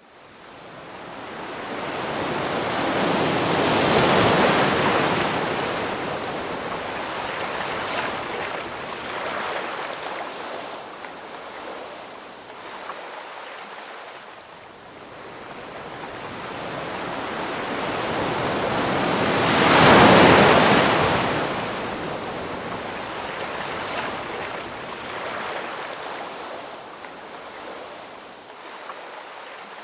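Ocean waves breaking, with a steady wash of surf. A large wave crashes about 4 seconds in and a louder one about 20 seconds in, each swelling up and then fading.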